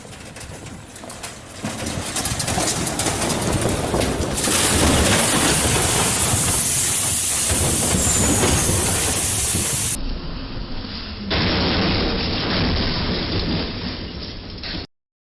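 Loud rushing noise of a train passing close by, building over the first few seconds. It breaks off abruptly about ten seconds in and gives way to a duller stretch of similar rushing noise, which stops suddenly near the end.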